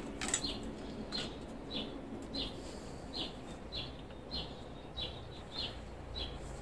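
A small bird chirping over and over, one short high chirp roughly every 0.6 seconds. A single sharp click sounds about a third of a second in.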